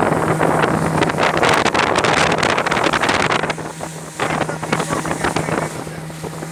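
Motorboat engine running with a steady low hum, under loud gusting wind on the microphone that eases off about halfway through.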